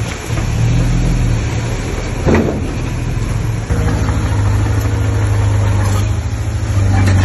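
Diesel engine of heavy earthmoving machinery running with a low, steady drone that grows louder a little under four seconds in and again near the end, as if taking on load. A single short knock about two seconds in.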